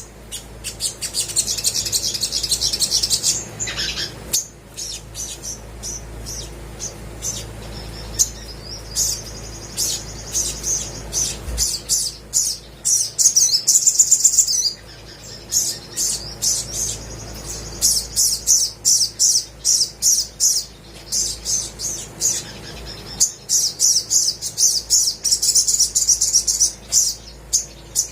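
Olive-backed sunbird singing: rapid, high-pitched chirps and twittering trills in quick runs, with a few brief pauses.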